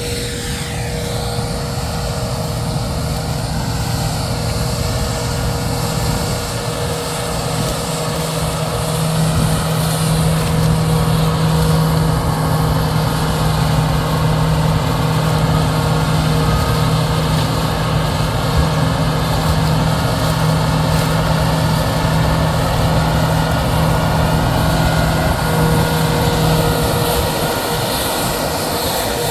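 Combine harvester running steadily while harvesting corn: a constant engine and machinery drone with a strong low hum, growing a little louder about eight seconds in.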